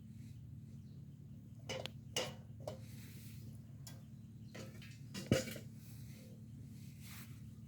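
A few light knocks and clinks of camp cookware or utensils being handled, four in all, the loudest about five seconds in, over a steady low hum.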